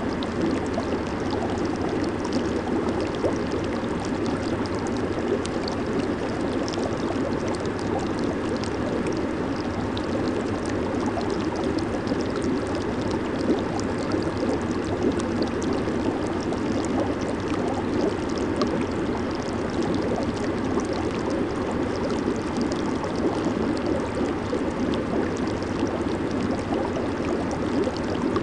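Hot tub jets running: a steady rush of churning, bubbling water.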